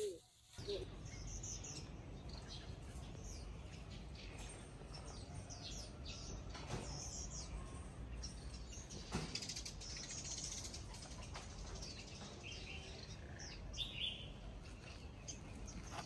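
Small birds chirping in short, scattered calls over a low steady rumble, with a couple of soft knocks.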